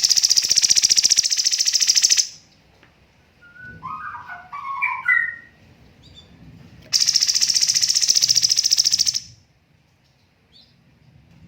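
Cucak cungkok songbird singing two long, very rapid, high-pitched trills of about two seconds each, several seconds apart: the rapid-fire 'tembakan' burst. Between them comes a shorter, quieter, lower warbled phrase of a few separate notes.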